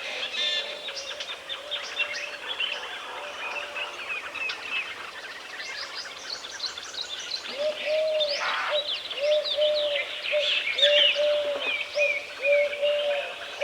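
Woodland birdsong: several small birds chirping and twittering. A little past halfway, a low hooting call joins in and repeats as a string of short notes.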